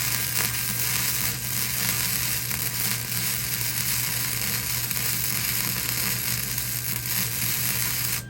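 Electric welding arc crackling and sizzling steadily as a weld is laid on a smoker grill, the arc cutting off abruptly at the end.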